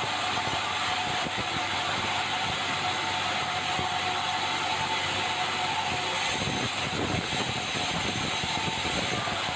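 Sawmill machinery running: a loud, steady mechanical noise with a faint steady hum, unchanging throughout.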